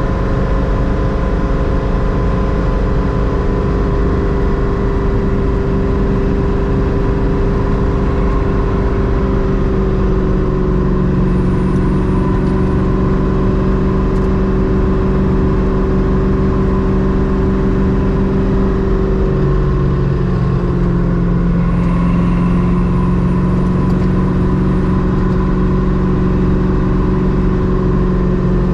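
Ultima kit car's LS-family V8 running under way at a fairly steady cruise, with tyre and road noise; its pitch shifts a little about ten seconds in and again about twenty seconds in.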